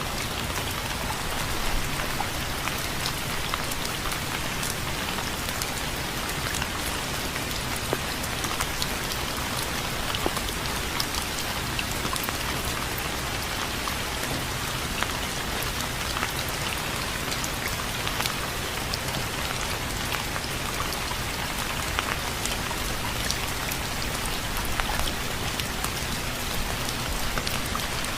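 Steady rain falling, with many small drop ticks scattered through a constant hiss.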